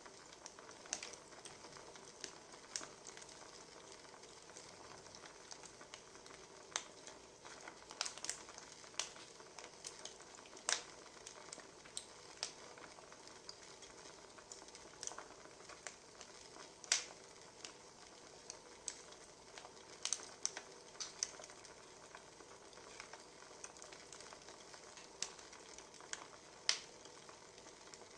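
Wood fire crackling: a soft steady hiss with irregular sharp pops and snaps, spaced from a fraction of a second to a few seconds apart.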